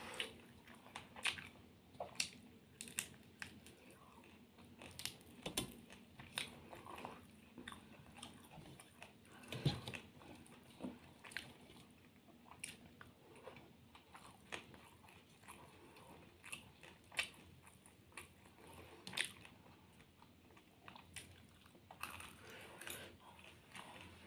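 Quiet sounds of a person chewing mouthfuls of rice and curry eaten by hand, with scattered short, irregular mouth clicks.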